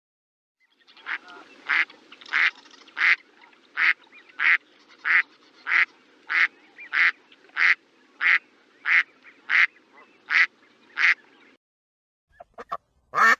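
A duck quacking over and over at an even pace, about one and a half quacks a second, for roughly ten seconds. A few short, quick sounds follow near the end, the last of them loud.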